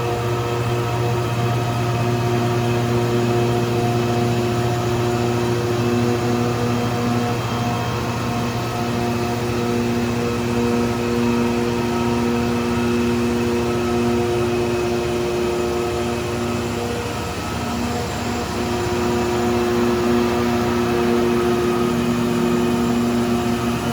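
PC6000 concrete pavement grinding machine running and cutting the NGCS surface texture into tunnel pavement. A steady, heavy engine drone with a constant hum, wavering briefly about two-thirds through.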